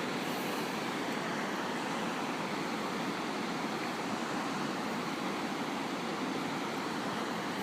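Steady, even rushing background noise outdoors, with no distinct events.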